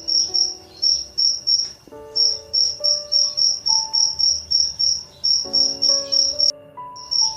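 Cricket chirping in a fast, even rhythm of about three high chirps a second, with a short break near the end, over soft piano music.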